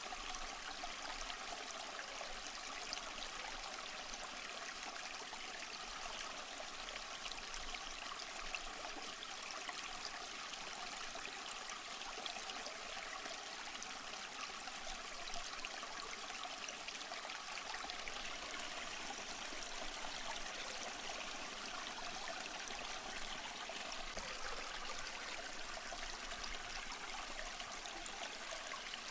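Small stream flowing and trickling over rocks, a steady splashing rush with no breaks.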